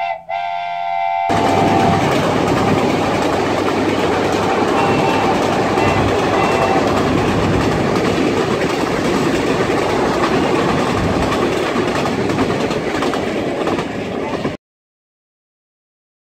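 A train horn sounds briefly, then a passenger train rolls past close by: a dense, steady rumble and rattle of wheels and carriages on the rails that cuts off suddenly about fourteen and a half seconds in.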